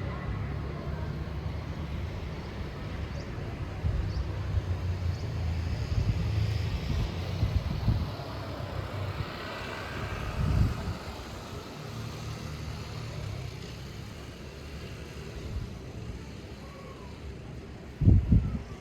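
Wind buffeting the microphone as a low, uneven rumble in gusts, with a stronger gust about ten seconds in and another near the end.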